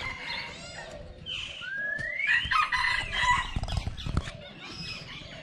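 Birds calling over one another, with one clear rising call about one and a half seconds in and a dense stretch of calls after it.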